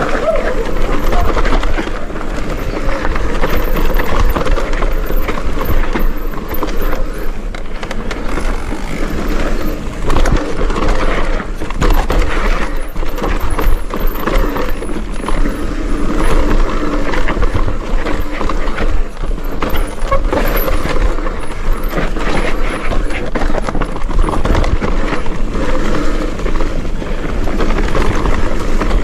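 Mountain bike riding fast down a dirt trail: a continuous rush of tyre noise and wind, broken all the way through by knocks and rattles from the bike over bumps.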